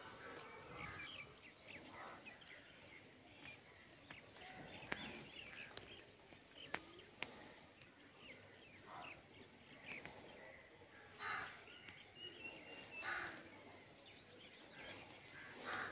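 Faint outdoor background with small birds chirping on and off, and a few sharp clicks about five and seven seconds in.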